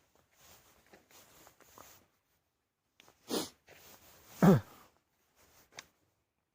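A person sneezing once, loudly, with a short sharp breath about a second before it.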